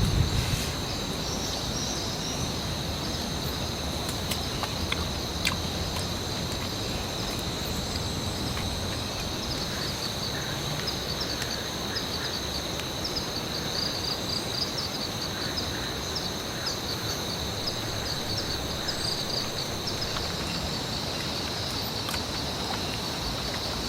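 Rainforest night chorus of insects droning steadily at a high pitch, with scattered short high chirps, over a steady hiss of rain. The tail of a thunder rumble dies away at the very start.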